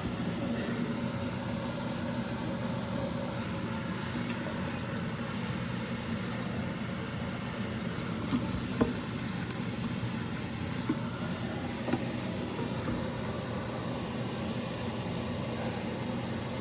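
Steady low hum of a running motor, with a few faint clicks and knocks about halfway through.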